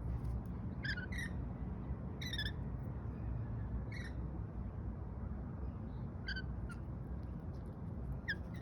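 Lorikeet giving about half a dozen short, falling chirps spread a second or more apart, over a steady low background rumble.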